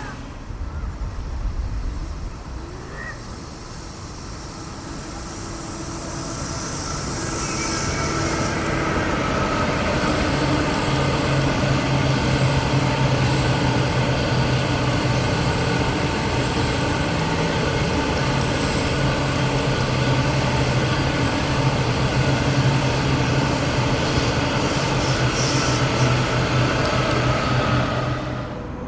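Passenger train on the line, growing louder over several seconds as it comes close, then running past steadily with a continuous hum under the rail noise.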